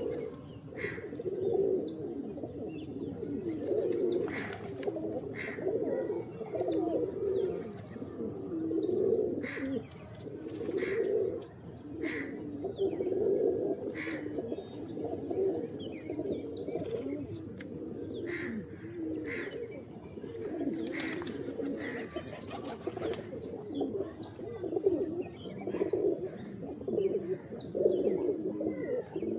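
A flock of pigeons cooing continuously, many overlapping low, pulsing coos, with short higher chirps every second or two.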